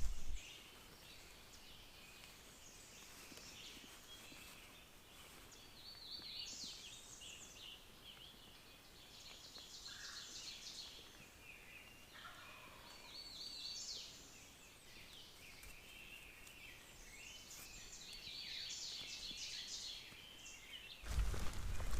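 Distant wild turkey gobbling, faint amid a chorus of small songbirds chirping and trilling. A loud low rumble comes in about a second before the end.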